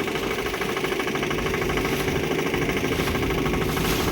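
Motorboat engine running steadily, with a fast, even pulsing.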